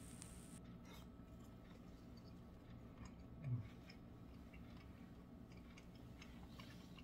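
Faint chewing of a mouthful of thin-sliced beef from noodle soup, with soft scattered mouth clicks, and one brief low hum about three and a half seconds in.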